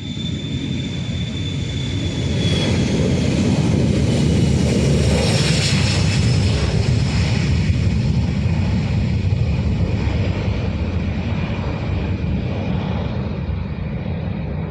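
Boeing 737-500's CFM56 jet engines running at high power as the airliner passes: a deep rumble with a high whine, swelling to its loudest a few seconds in, then slowly fading.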